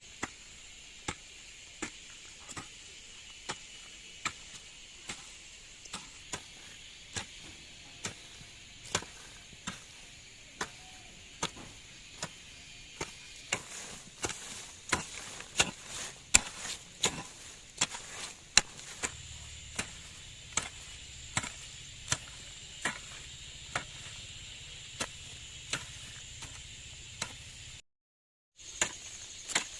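Repeated chopping strokes of a hand tool in a steady rhythm, a little more than one a second, with insects buzzing steadily behind. The sound drops out completely for a moment near the end.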